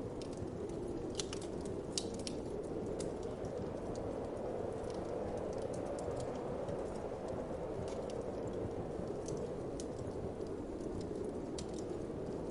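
Wood fire crackling with irregular sharp pops and snaps, thickest in the first few seconds, over a steady whoosh of wind.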